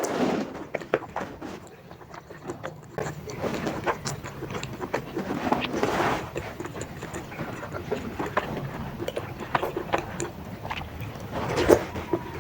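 Close-miked chewing of chewy baso aci (tapioca balls) in spicy broth: a steady run of wet mouth clicks and smacks, with a few longer, louder swells of mouth noise.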